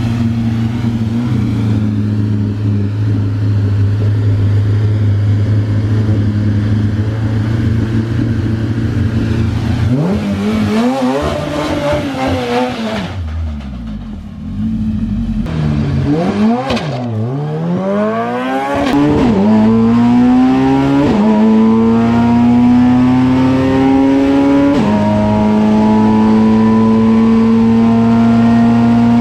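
Honda VTEC four-cylinder engine of a drag-racing pro truck, held at steady revs for about ten seconds, then revved up and down. From about 18 seconds in it launches and pulls hard, the pitch climbing in each gear and dropping at each upshift.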